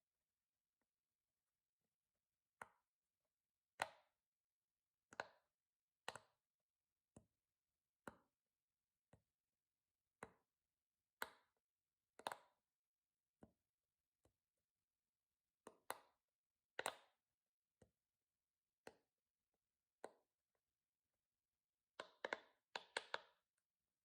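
Silicone pop-it fidget ball, its bubbles pressed in one by one with the fingers: sharp soft pops about once a second, then a quick run of five or six near the end.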